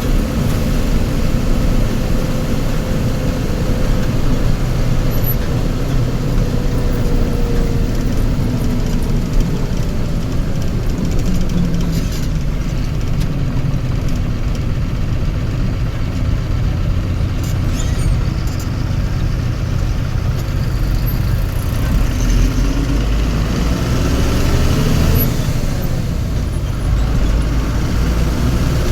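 Motor vehicle engine running with road traffic noise, a steady low rumble. A faint tone slides down in pitch over the first several seconds, and another rises and falls near the end.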